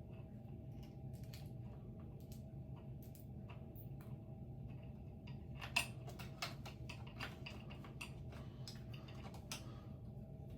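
Scattered light clicks and taps of small metal and plastic fan-mounting parts and wiring being handled, with one sharper click about six seconds in, over a steady low hum.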